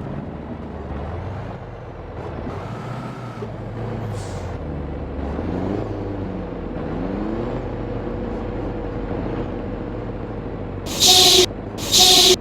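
Scania V8 diesel truck engine with a straight-pipe exhaust running and being revved, its pitch rising and falling a few times. Two short, loud blasts come near the end.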